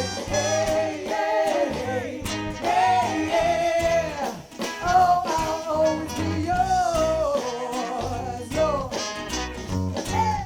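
Live band playing with drums, bass and guitar, and a bending melody line on top from a voice or horn.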